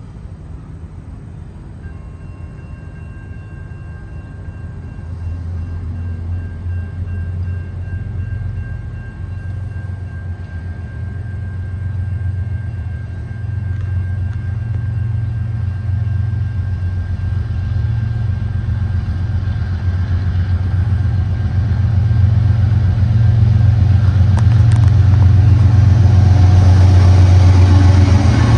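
CN freight train's diesel locomotives approaching, a low engine rumble growing steadily louder. Near the end the lead locomotive draws level, adding wheel and rail noise.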